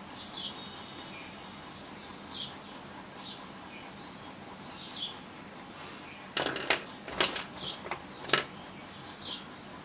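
Colour pencil scratching on paper in a run of quick shading strokes between about six and eight and a half seconds in, over a faint steady high chirring with occasional soft chirps in the background.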